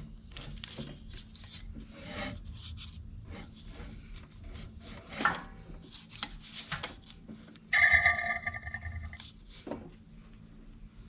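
Scattered light clicks, knocks and rubbing of hands and tools working on the mower. About eight seconds in comes a loud, steady electronic tone with several pitches, lasting about a second and a half.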